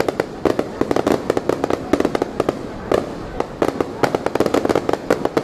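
Fireworks going off in quick succession: many sharp bangs and cracks overlapping, several a second.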